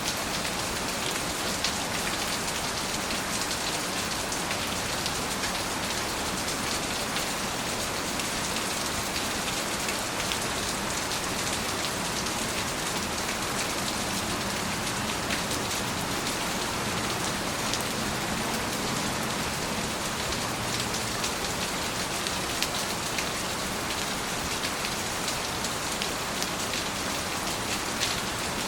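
Steady rainfall pattering on surfaces, an even hiss with many small drop ticks throughout.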